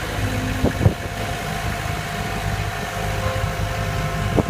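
Tractor engine running steadily at idle, with a few short knocks about a second in and again near the end.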